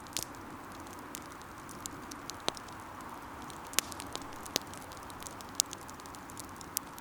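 Wood campfire burning with a steady low hiss and irregular crackles and pops of the burning firewood, a few sharper pops standing out.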